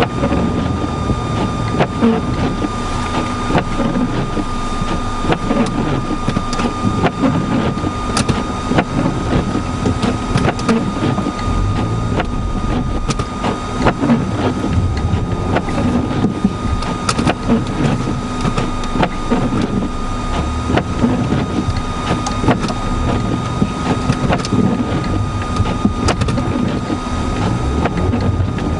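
Car engine running steadily with a constant whine, under wind rumbling on the microphone.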